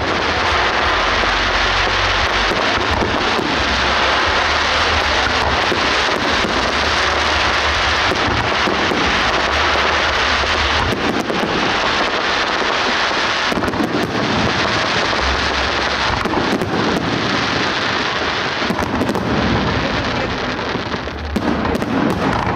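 Aerial fireworks shells bursting in quick succession: a dense, continuous crackle of many sharp bangs over a low rumble.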